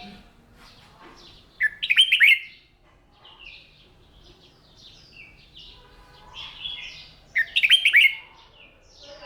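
Red-whiskered bulbul singing: two loud, bright song phrases, the first about one and a half seconds in and the second about seven seconds in, with fainter chirping from other birds between them.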